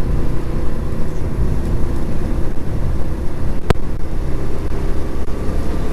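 Suzuki GS150 motorcycle's single-cylinder engine running at road speed, with steady wind noise on a clip-on lavalier microphone. A single sharp click comes about three and a half seconds in.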